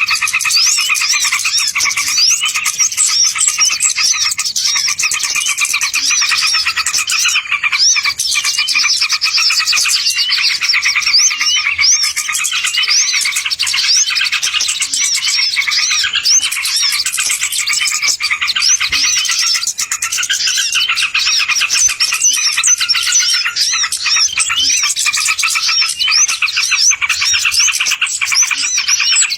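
Bird-lure recording of small birds chirping, a dense unbroken chorus of many overlapping quick, high calls repeated over and over.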